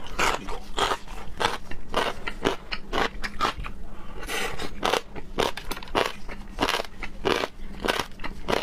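Close-miked mouth sounds of a person chewing raw seafood, with wet, crunchy bites at a steady rhythm of about two to three a second.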